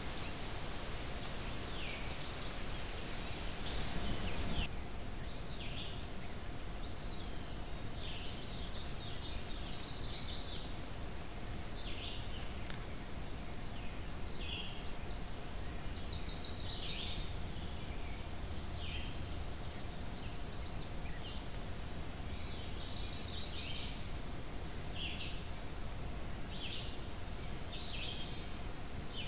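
Songbirds singing in short phrases repeated every second or two, over a steady hiss from a trail camera's microphone.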